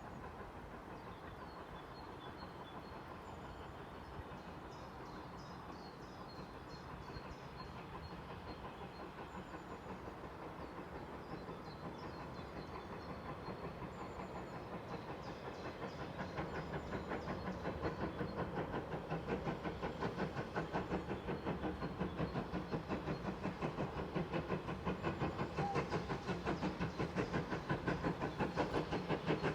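GWR 28xx-class 2-8-0 steam locomotive 2857 working a train and drawing closer. Its exhaust beats grow steadily louder and become a plain, regular chuffing in the second half. The engine is running on freshly overhauled valves and pistons.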